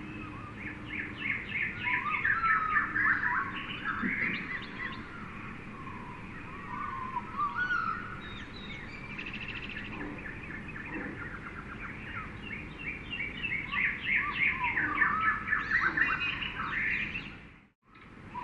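Jungle bird chorus: many birds chirping, trilling and whistling over each other against a steady background hum. The sound drops out abruptly for a moment near the end, then returns.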